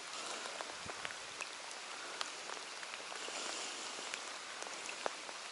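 Steady rain falling on the lake surface, an even hiss with scattered close drops ticking sharply and irregularly.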